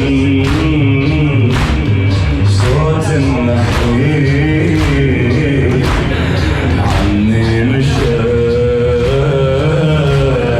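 A male reciter chanting a Shia latmiya (Muharram mourning chant), with sharp beats about once a second keeping the rhythm.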